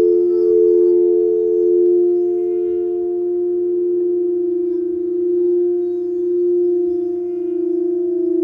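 Singing bowls ringing in a long sustained tone, several steady pitches sounding together and slowly swelling and fading in a gentle pulse.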